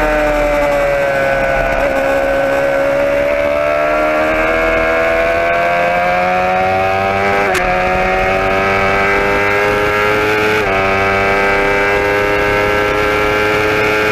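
Motorcycle engine running steadily under way. Its pitch sinks a little, then climbs slowly, with two short hitches in the sound, one just past halfway and one about three quarters of the way through.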